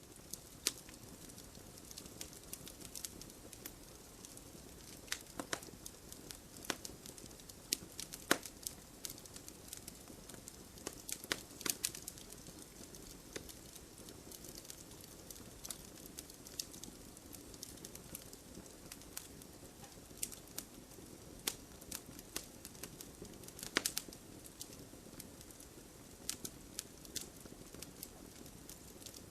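Wood fire burning in a fireplace: a soft steady rush of flames with irregular crackles and pops from the burning logs, a few sharper pops standing out.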